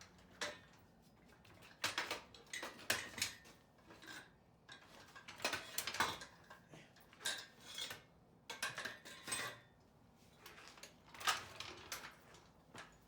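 Irregular metallic clinks and clanks of shop equipment and metal parts being handled and moved, a dozen or so sharp knocks spread unevenly.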